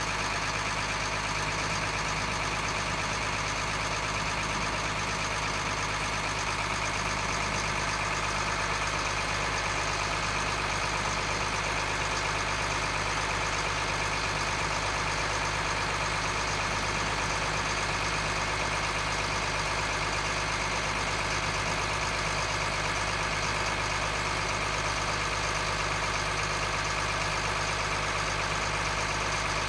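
M1078 LMTV truck's diesel engine idling steadily.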